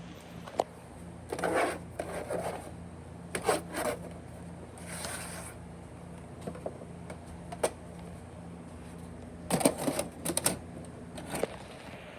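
Irregular clicks and short clattering rattles over a steady low electrical hum.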